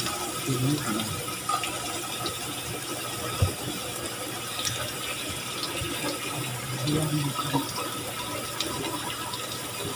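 Shredded sweet potato pancakes shallow-frying in hot oil in a pan: a steady sizzle and crackle, with one short knock about three and a half seconds in.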